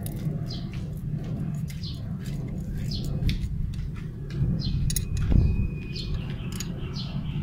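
Small birds chirping repeatedly over a steady low rumble that swells briefly about five seconds in, with a few sharp clicks scattered through.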